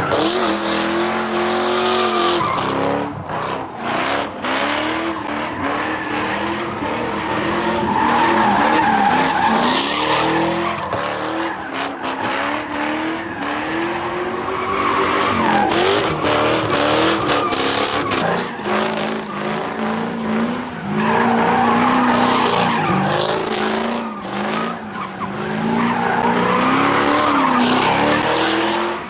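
A car doing burnouts or donuts: the engine is revved up and down repeatedly, with tyres squealing and skidding on the pavement.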